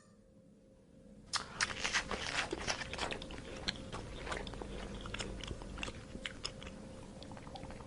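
An animal chewing crunchy food: a quick, irregular run of crunches that starts about a second in.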